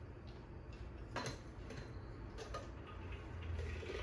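A few faint clicks and taps of small drink bottles being capped and handled, over a low steady hum.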